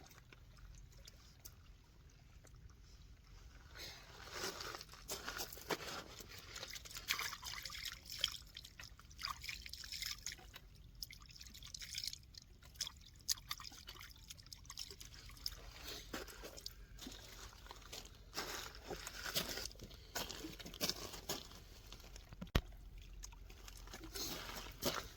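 Water trickling and splashing irregularly, with small clicks mixed in.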